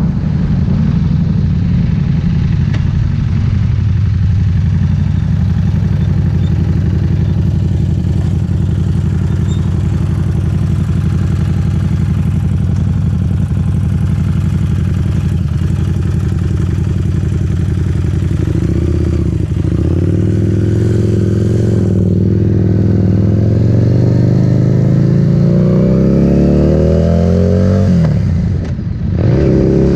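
Harley-Davidson Street Rod 750's V-twin engine through a Vance Hines exhaust, running at a steady pace, then accelerating from about two-thirds of the way in with its pitch climbing. Near the end the note drops briefly at a gear change, then climbs again.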